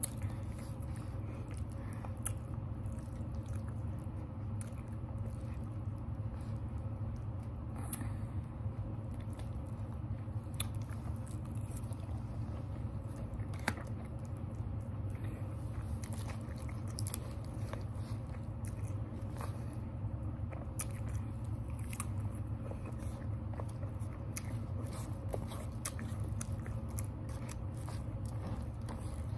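A person chewing food close to the microphone, with scattered small clicks over a steady low hum.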